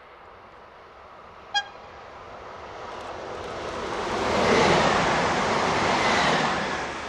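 Trenitalia Pop (Alstom ETR 104) electric multiple unit passing at speed. Its rushing noise builds over a few seconds, peaks, and begins to fade near the end, with a faint whine that drops slightly in pitch as it goes by. About a second and a half in there is a single brief, sharp, high toot.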